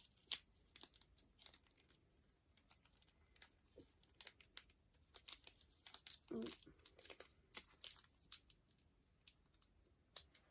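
Faint, scattered crinkling and tearing of packaging being handled and opened, with irregular small crackles and one louder rustle about six seconds in.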